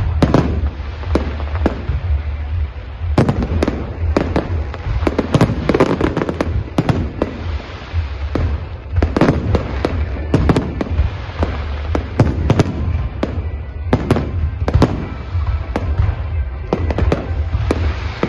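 Aerial fireworks display: shells bursting in quick, irregular succession, bangs and crackles overlapping over a steady low rumble.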